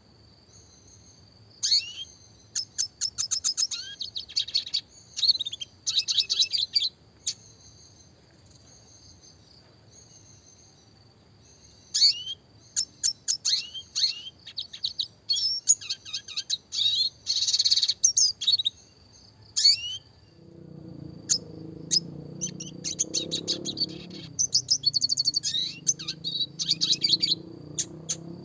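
Red siskin singing in bursts of rapid high twitters, trills and quick rising sweeps, with pauses of several seconds between phrases. About two-thirds of the way in, a low rumbling noise comes in underneath the song.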